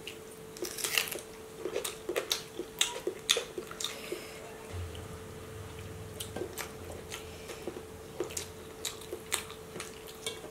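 Close-miked eating: wet chewing, lip smacks and many short clicks as two people eat boiled eggs and mutton biryani by hand. A faint steady hum runs underneath.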